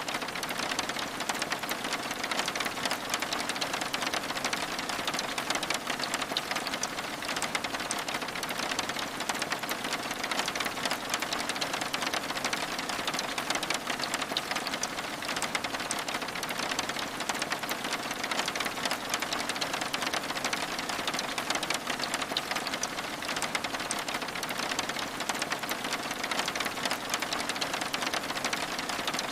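Steady rain with a dense, even patter of drops on window glass.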